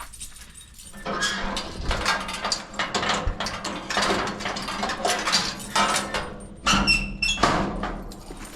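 Metal farm tools being handled and rummaged through: irregular clattering, knocking and scraping, with a couple of short ringing metal clinks near seven seconds in.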